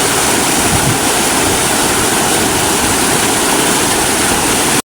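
Loud, steady rushing of a rain-swollen stream in flood. It cuts off abruptly near the end.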